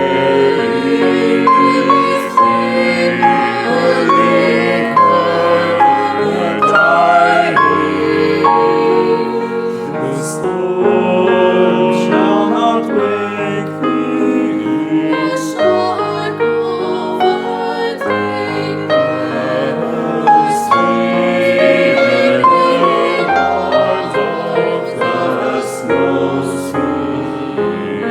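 Vocal ensemble singing in several-part harmony, with held chords that change every second or so.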